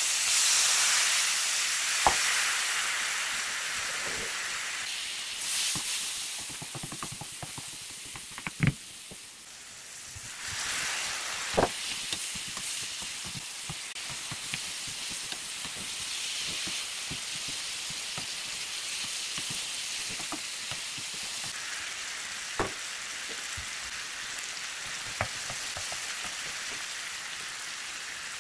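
Food sizzling and frying in a hot non-stick pan. The sizzle jumps up at the start as soaked dried chillies drop into the pan, eases off, then swells again about ten seconds in and holds steady while the contents are stirred. A wooden spatula knocks sharply against the pan a few times.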